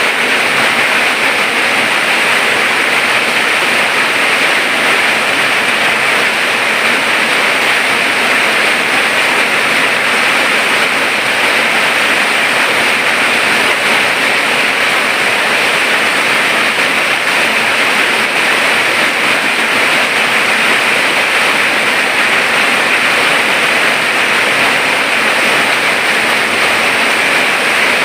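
Rain falling, a steady unbroken hiss.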